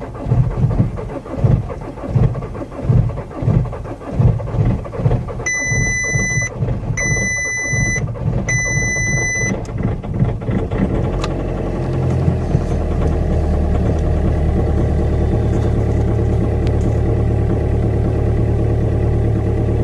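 VW Golf Mk5 2.0 TDI four-cylinder diesel struggling through a start in deep cold, with heavy uneven pulses before it catches and runs rough. Three electronic beeps sound a few seconds in, and the engine settles into a steady idle about twelve seconds in.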